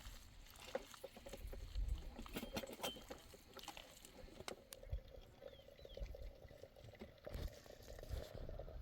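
Faint, scattered light clicks and knocks, denser in the first half.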